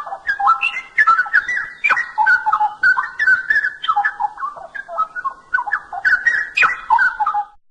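Straw-headed bulbul (cucak rowo) singing a fast, continuous run of loud whistled notes that jump up and down in pitch, breaking off near the end.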